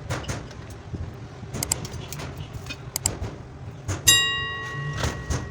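Small clicks and knocks of tools and wires being handled on a workbench, with a sharp metallic strike about four seconds in that rings and fades over about a second.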